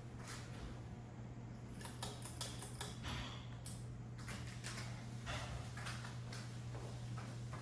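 Hunter 52112 ceiling fan coasting down after being switched off at the pull chain and unplugged. A steady low hum runs under many irregular clicks and ticks.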